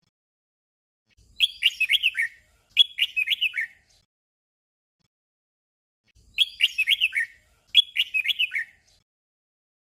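Red-whiskered bulbul singing a short, simple warbled phrase twice in quick succession, then after a pause of about two seconds the same doubled phrase again.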